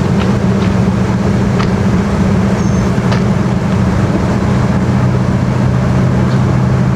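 Boat engines running steadily at idle, a low, even drone with a few faint clicks over it.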